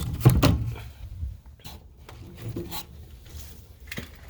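Dry-rotted wooden fence 2x4 and boards cracking and creaking as they are pushed, a sign that the rotted rail needs replacing. A few loud cracks near the start, then scattered faint crackles.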